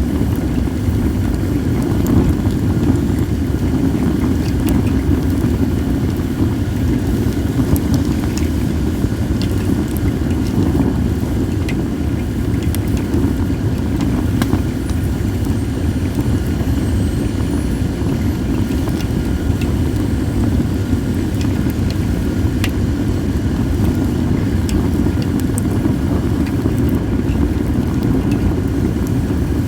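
Wood fire of acacia and mixed firewood burning, with sparse sharp crackles and pops at irregular moments, under a steady low rumble of wind on the microphone.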